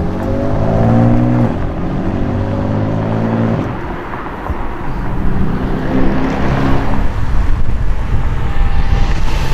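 Sports car engines accelerating hard as cars pull away: the engine note climbs, breaks at a gear change about a second and a half in, climbs again, then gives way to a deeper, uneven exhaust rumble from further cars near the end.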